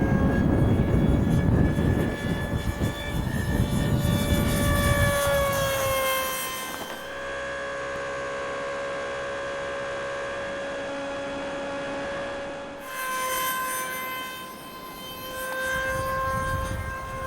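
Electric motor and propeller of an RC model plane in flight, a steady high whine that dips slightly in pitch about five seconds in. Wind rumbles on the microphone for the first six seconds.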